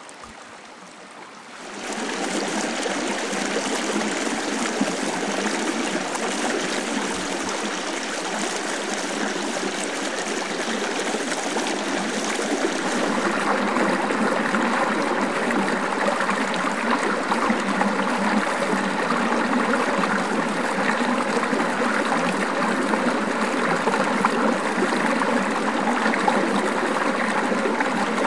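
Small mountain river running over its bed: a steady rush of flowing water, quieter for the first couple of seconds, then fuller and even.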